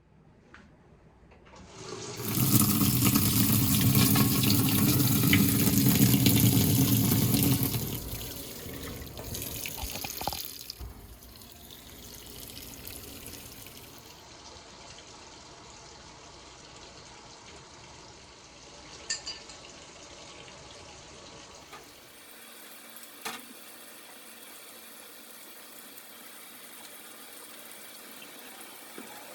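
Water running hard for about six seconds, then stopping to a quieter background with a few small clicks.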